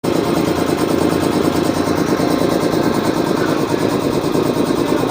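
5 hp reciprocating piston air compressor running steadily, with a rapid, even pulse.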